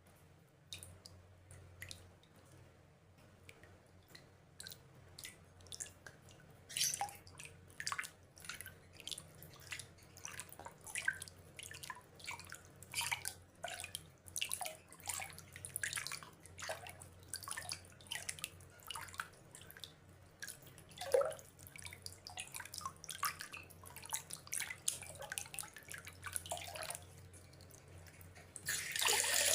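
Water drops dripping and plinking, sparse at first and then several a second, some with a falling pitch. Near the end a steady rush of water sets in.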